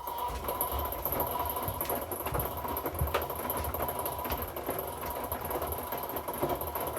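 Washing machine running: a steady motor hum and drum rumble with a thin whine and a few light clicks.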